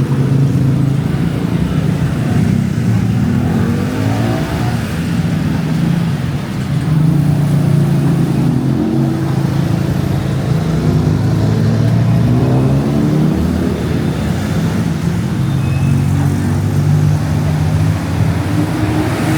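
City street traffic: several vehicle engines running and passing close by, their pitches rising and falling as they speed up.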